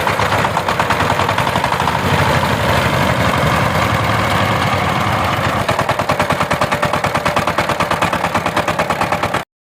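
Power tiller's diesel engine running with a rapid, even knocking beat. It cuts off abruptly near the end.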